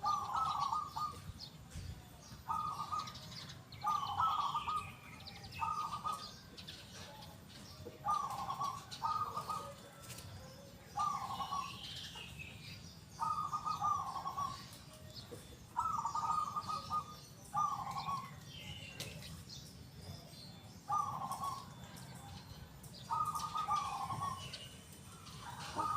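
Zebra dove cooing: short repeated coos in runs of one or two notes every second or two. Smaller birds chirp faintly behind it.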